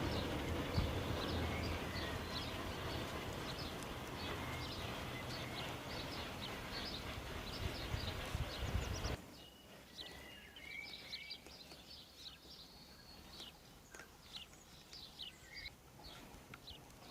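Small birds chirping in quick, repeated short calls throughout. For the first half a steady rumbling background noise lies under them, and it cuts off suddenly about nine seconds in, leaving the birdsong on its own.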